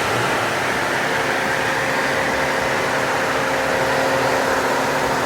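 Car engine and road noise heard from inside the cabin while driving, steady with a low held engine note.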